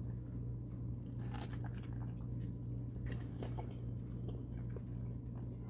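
A man biting into and chewing a soft tortilla wrap filled with tofu crumble and onions, with a few faint chewing clicks. A steady low hum runs underneath.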